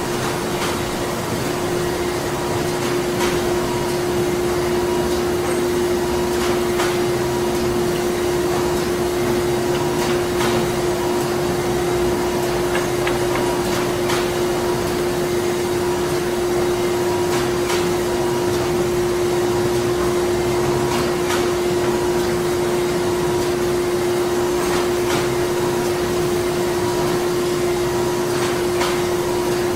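Printing-plant machinery running: a steady drone with a strong hum, faint regular pulsing above it and scattered light clicks.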